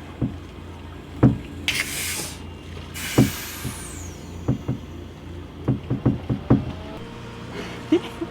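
A small air tank and diving airline being readied: sharp knocks and clunks of the gear being handled, with two short bursts of hissing air about two and three seconds in. A low steady hum runs underneath.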